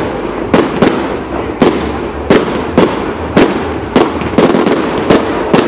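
Aerial fireworks bursting in rapid succession: a string of loud, sharp bangs about two a second over a continuous crackle.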